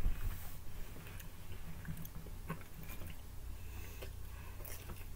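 A person chewing and biting into pizza close to the microphone, with scattered small mouth clicks over a steady low hum.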